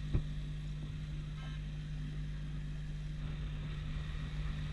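Suzuki GS motorcycle engine running steadily while the bike is ridden, a constant hum with road noise. A short click just after the start.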